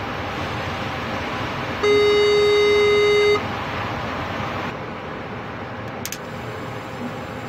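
Steady running noise of a train heard from the locomotive cab, with one loud, steady single-pitched tone sounding for about a second and a half a couple of seconds in; a few faint clicks follow about six seconds in.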